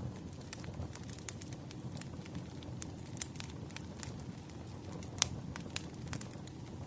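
Wood fire crackling: a steady low rumble of burning logs with frequent sharp pops and snaps, the loudest a little past five seconds in.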